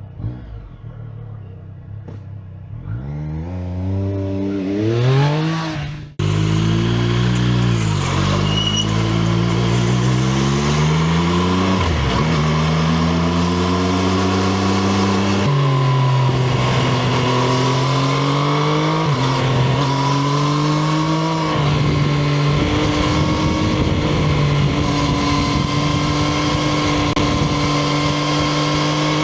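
Triumph Street Triple RS 765 cc inline-three engine pulling away and accelerating hard, its pitch climbing in steps with drops at each upshift. Over the last third it settles into a near-steady drone at constant speed.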